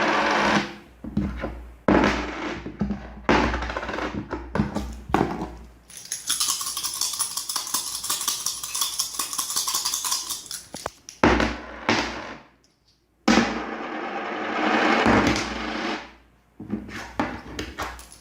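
A series of separate coin recordings: metal coins clinking and dropping in quick clusters of sharp clicks, with a continuous bright jingling lasting about five seconds in the middle, and a brief silent gap between clips.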